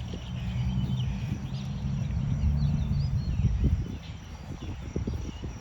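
Wind buffeting the microphone in a low rumble that eases after about four seconds, with small birds chirping.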